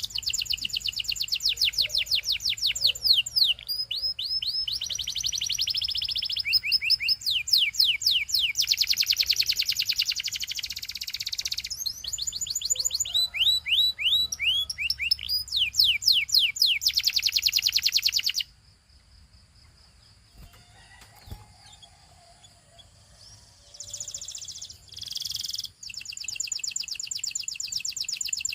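Domestic canary singing: rapid trills of quick downward-sweeping notes, changing from one tour to the next, with a pause of about five seconds after the middle and a short phrase before the song picks up again near the end.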